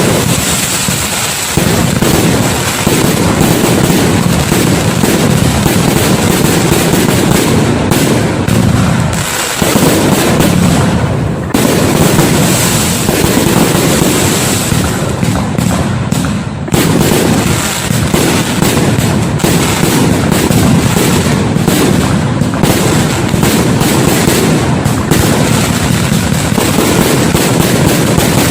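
Fireworks display going off in a dense, continuous barrage of bangs and crackling, with brief lulls about ten and seventeen seconds in.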